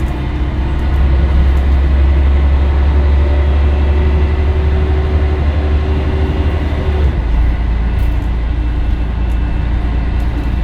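Scania L113CRL bus's rear-mounted inline-six diesel running under way with a loud, deep drone. About seven seconds in, the engine note changes abruptly, as at a gear change.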